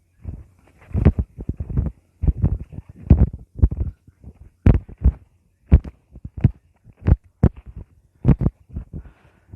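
Irregular low thumps and knocks, several a second in uneven clusters with short gaps between them.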